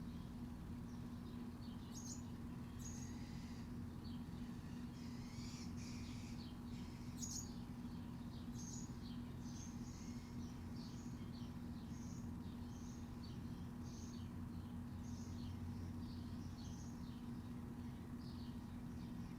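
Small birds chirping in short, high notes, irregularly at first and then about one or two a second, over a steady low hum.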